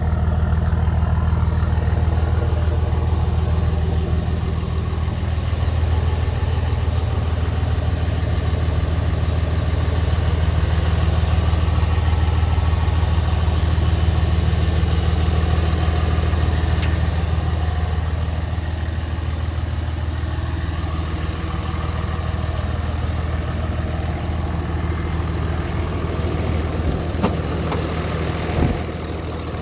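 Dodge Ram 3500's 5.9 Cummins inline-six turbo diesel idling steadily, with a couple of sharp knocks near the end.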